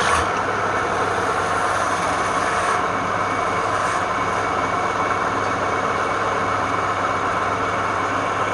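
Wood lathe running steadily, its motor humming under a constant whirring.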